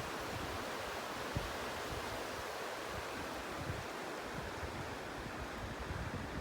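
Steady outdoor rush of moving water and wind, with gusts of wind buffeting the microphone now and then.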